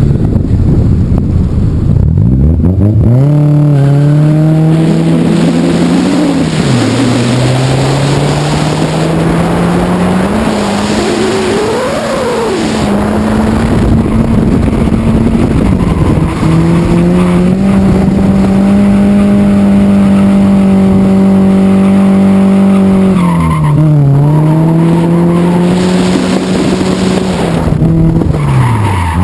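Nissan 240SX's KA24DE 2.4-litre four-cylinder, running through a 3-inch exhaust, revving hard during a drift run: the pitch climbs, drops sharply a few seconds in, climbs again and is held high and steady for several seconds, dips about three quarters of the way through, rises once more and falls away near the end. Tyres skid and squeal under the sliding car.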